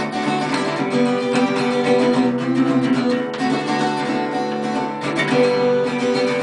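Acoustic guitar strummed steadily, playing chords on its own.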